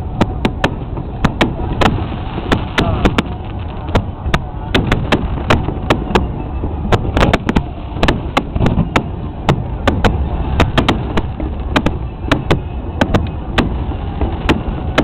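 Fireworks going off in a rapid, irregular barrage: sharp bangs several times a second over a constant low rumble.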